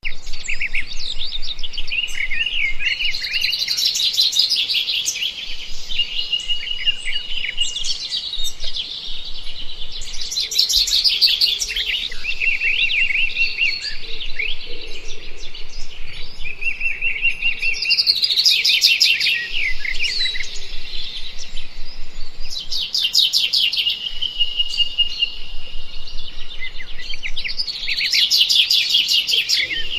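Several wild birds singing and calling continuously in a dense chorus. Short steady whistled notes mix with a burst of fast, high trilling every few seconds.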